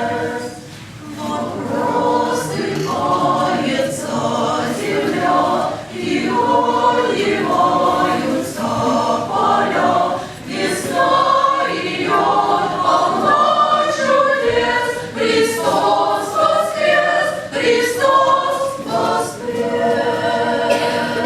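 Church choir singing in several voices, phrase by phrase, with short pauses between phrases.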